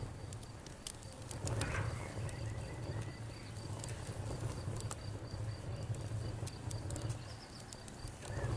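Campfire crackling with scattered sharp pops over a low steady rumble, and an insect trilling steadily in rapid high pulses.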